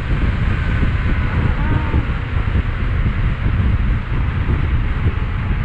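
Wind rushing and buffeting over the microphone of a rider on a fast-moving 72-volt electric bike, a steady low rumble with no engine sound.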